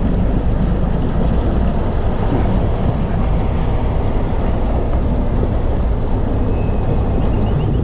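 Small fishing boat under way: its outboard motor runs steadily under a loud, rumbling wash of wind buffeting the microphone.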